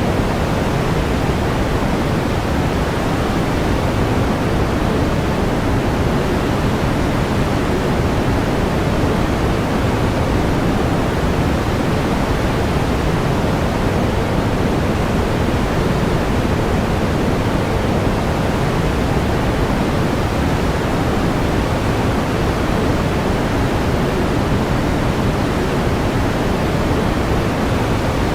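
Steady pink noise: an even hiss weighted toward the low end, unchanging in level.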